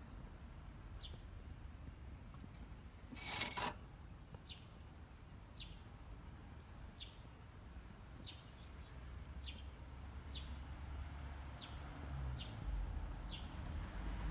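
A bird calling outdoors, giving a short, falling chirp about once a second over and over. A brief burst of noise comes about three seconds in, and a low rumble grows louder near the end.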